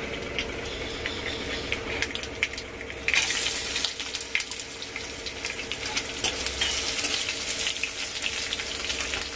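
Mustard seeds crackling and spitting in hot mustard oil in a steel kadhai. About three seconds in, sliced onions are tipped into the oil, which sizzles up loudly and keeps sizzling while a steel ladle stirs and scrapes the pan.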